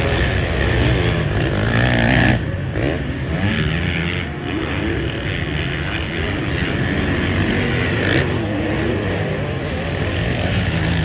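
Motocross bike engine revving hard, its pitch repeatedly rising and falling, with a sudden drop about two seconds in.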